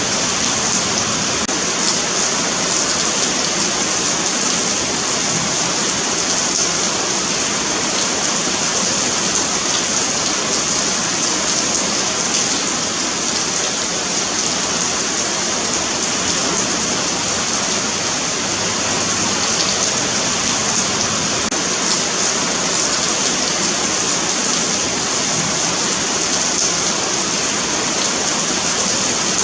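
Steady rain falling on a paved sidewalk, a dense, even patter of drops with a bright hiss.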